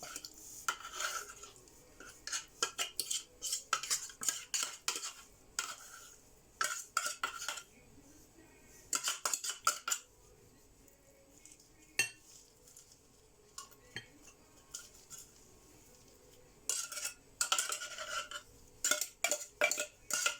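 A metal utensil clinking and scraping against a dish in bursts as drained chunk tuna is scooped out onto shredded lettuce. A quieter stretch with a few single clicks falls in the middle.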